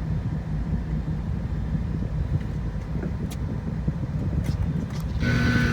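Steady low rumble heard from inside a pickup's cabin in an automatic car wash bay, with scattered faint clicks and a short whine of several steady tones near the end.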